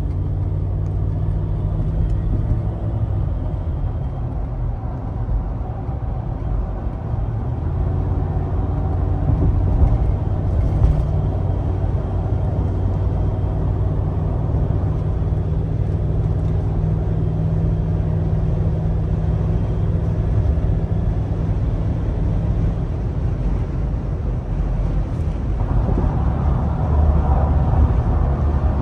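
2011 Cadillac Escalade's V8 engine running steadily, with an even low hum. About three seconds before the end it grows louder and fuller.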